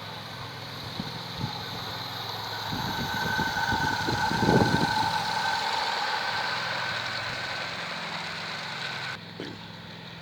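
A model garden-railway train running past: the motor and gears of the battery-powered diesel locomotive whine, swelling to a peak about halfway through and fading as the train moves on, with a couple of clicks from the wheels on the track early on.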